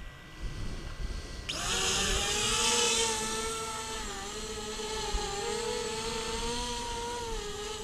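Electric motors of an XK X450 VTOL model aircraft spinning up about a second and a half in, then a steady whine whose pitch wavers slightly as the model hovers against gusty wind. A low rumble of wind on the microphone runs under it.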